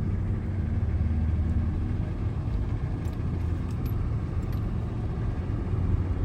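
A vehicle driving along at steady speed: a low, steady engine and road drone.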